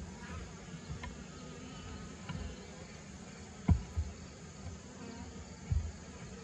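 Honeybees buzzing around an open horizontal hive, a steady hum, with a few low thumps, the loudest a little past halfway and another near the end.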